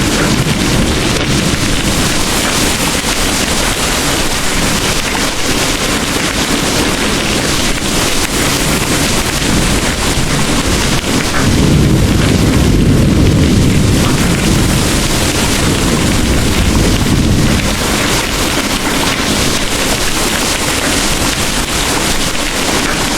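Heavy rain pouring in a steady hiss, with distant thunder rolling low. The biggest rumble swells up about twelve seconds in and dies away over roughly five seconds.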